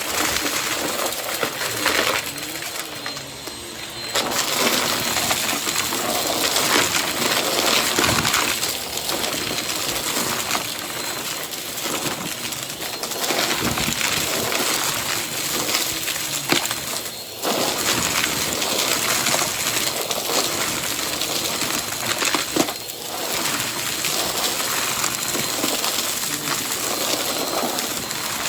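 Vacuum cleaner running steadily with a faint high whine, its sound dipping briefly a few times as it is worked over the floor.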